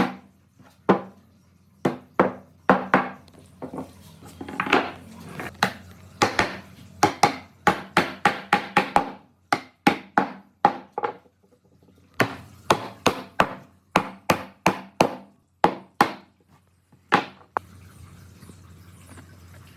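A hammer striking wood: a long series of sharp, irregular knocks, a few a second, with a brief pause midway, stopping near the end.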